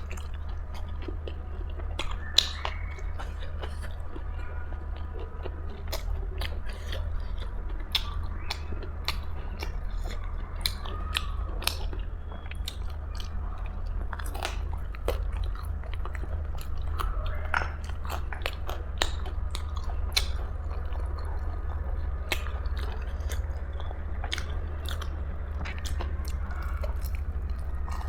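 Close-miked eating: biting and chewing food, with many short, crisp crunches and mouth clicks scattered throughout, over a steady low hum.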